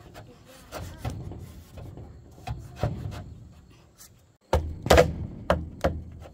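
Wood knocking and scraping: scattered knocks with rubbing between them, then four loud knocks in quick succession about four and a half seconds in.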